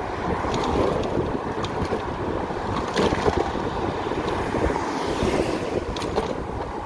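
Steady wind rush over the microphone, mixed with road noise, as an electric motorcycle rides along at speed.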